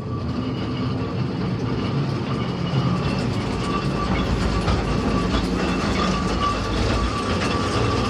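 Mine-tour rail cars rolling along the track: a steady rumble of wheels on rails with a thin, steady high-pitched tone running over it.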